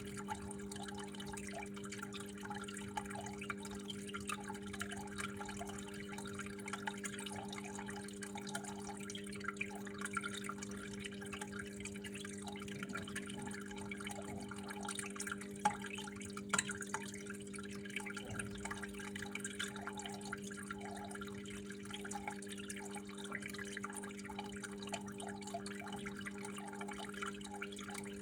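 Water flowing and dripping steadily, with many small irregular drops and splashes, over a steady low hum.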